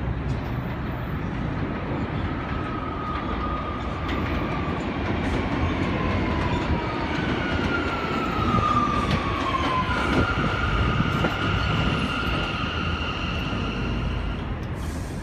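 New York City subway train running through the station: a steady low rumble with high whining tones over it. One tone glides down in pitch about two-thirds of the way through, and then two steady tones hold until they fade near the end.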